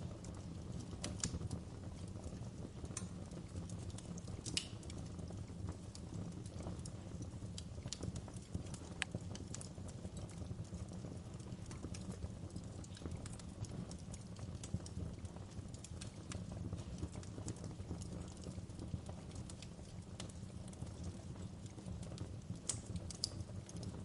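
Wood fire burning in a fireplace, crackling: a steady low rumble with scattered sharp pops and snaps, a little louder and more frequent near the end.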